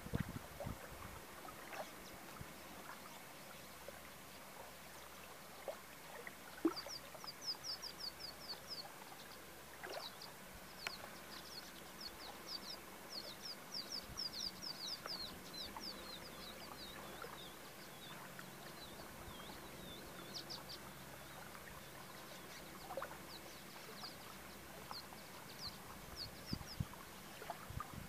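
Small birds chirping in quick runs of short, high, falling notes, many a second, coming in bursts from several seconds in until near the end.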